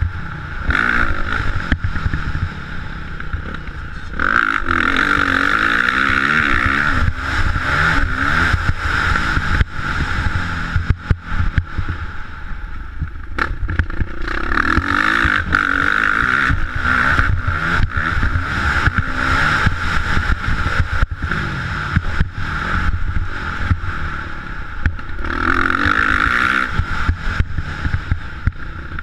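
Motocross dirt bike engine running hard, its pitch rising and falling over and over as the throttle is opened and closed, with many short knocks and rattles.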